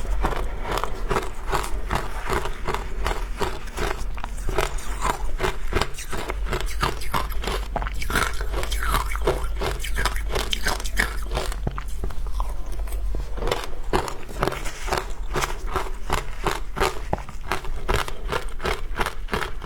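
Close-miked crunching of frozen matcha ice being bitten and chewed: a dense, rapid run of sharp crunches, a few each second, easing off briefly past the middle.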